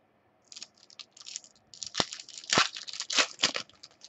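A Topps Chrome baseball card pack being torn open and its wrapper crinkled: a run of quick tearing and rustling bursts with a few sharp clicks, busiest in the second half.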